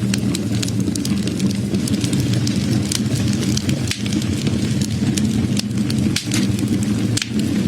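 Wood fire burning: a steady low rumble of flames with frequent sharp crackles and pops from the burning wood, irregularly spaced.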